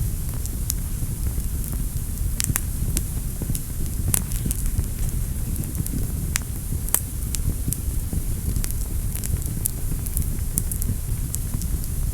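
Wood fire burning in a fireplace: a steady low roar of the flames with frequent sharp, irregular crackles and pops.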